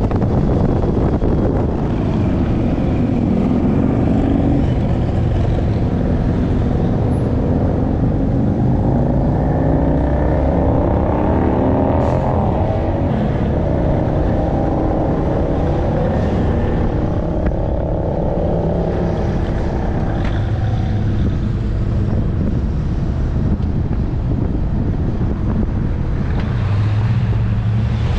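A Cadillac CTS-V coupe's supercharged V8 heard from a camera on its hood while driving, its pitch rising and falling, under steady wind and road noise on the microphone. Near the end it settles to a steadier low hum.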